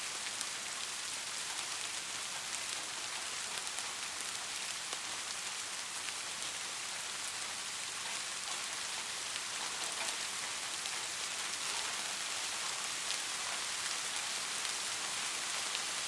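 Steady rain: an even hiss with scattered drops ticking close by.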